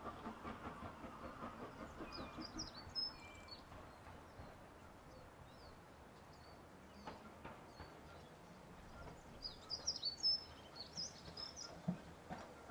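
Small birds chirping in two short spells, about two seconds in and again about ten seconds in, over faint outdoor background noise, with a couple of sharp knocks near the end.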